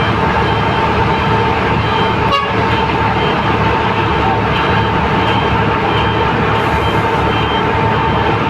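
Heavy truck engine running steadily at a constant speed, with a steady whine over it and short faint beeps repeating about once a second.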